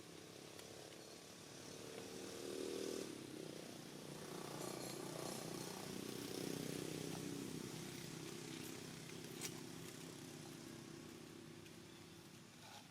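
A vehicle engine passing by: it grows louder over the first few seconds, holds, then slowly fades away. A single sharp click comes about nine and a half seconds in.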